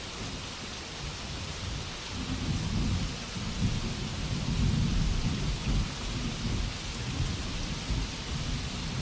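Steady rain hiss with a low rolling rumble of thunder that swells from about two seconds in and slowly dies away.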